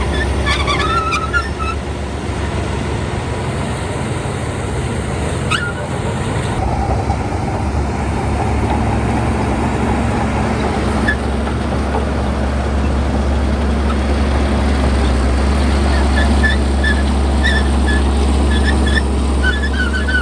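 Bulldozer's diesel engine running steadily with a deep drone, a brief click about five seconds in, and faint high chirps at the start and again near the end.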